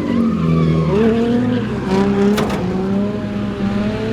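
Drift car engine revving hard, its pitch holding and then jumping up and down every second or so, with tyres squealing.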